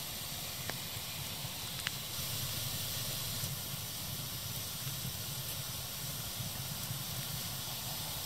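Fire crackling: a steady hiss with scattered sharp pops, two of them clearer in the first two seconds.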